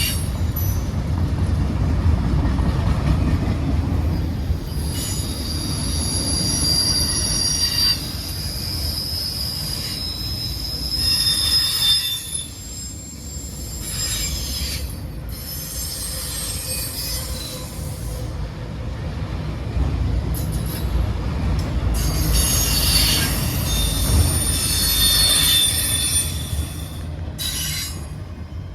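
Freight train of autorack cars rolling past, its steel wheels squealing in several high-pitched stretches over a steady low rumble of wheels on rail. It fades away near the end.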